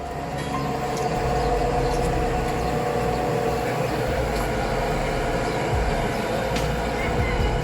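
Tractor engine and machinery running steadily: a loud, continuous mechanical rumble with a steady whining tone above it.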